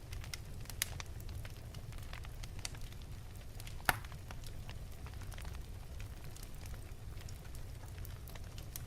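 Wood fire burning in an open fireplace: a steady low rumble of the flames with scattered sharp crackles and pops, one louder pop about four seconds in.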